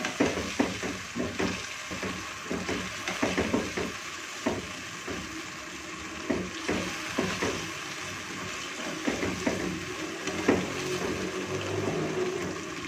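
Beef pieces and tomato paste sizzling in hot oil in a nonstick wok while a spatula stirs them, with many short scrapes and clicks of the spatula against the pan over a steady sizzle: the meat being fried down (bhuna) with the tomatoes.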